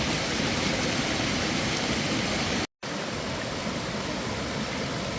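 Steady rush of running water, like a mountain stream or waterfall. It cuts out completely for a split second a little past halfway, then carries on slightly softer.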